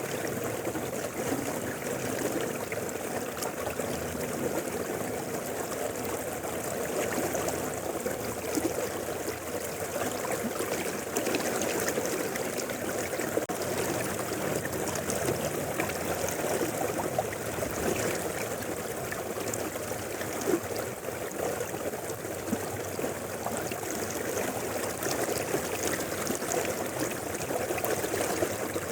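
Mountain river flowing: a steady rush and burble of water over rocks, unchanging throughout.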